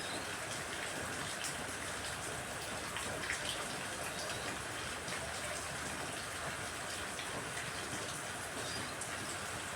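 Steady rain falling, an even hiss of rain noise.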